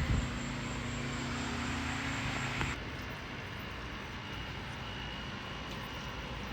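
Steady machine hum with low steady tones under a broad hiss, changing abruptly about three seconds in to a slightly quieter, even hiss with a faint high tone.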